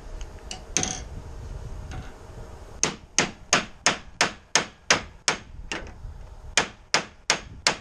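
Hammer blows during repair of a GAZelle NEXT truck's broken body posts: a couple of scattered knocks, then from about three seconds in a steady run of sharp strikes, roughly three a second, with a short pause near the end.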